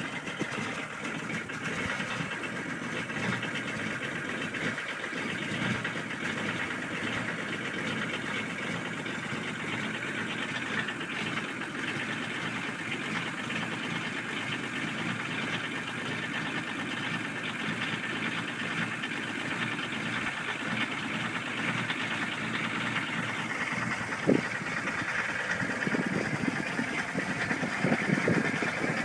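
Diesel car engine idling steadily after a cold start. A sharp louder knock comes about five seconds before the end, and a few more follow near the end.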